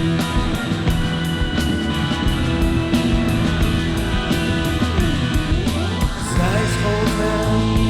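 Live rock band playing an instrumental passage: electric guitar and bass notes held over a steady drum beat, with a sliding pitch that dives and climbs back up about five seconds in.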